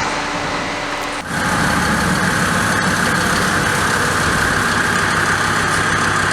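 Turbocharged Mercedes OM602 five-cylinder diesel engine running steadily, with a brief dip about a second in.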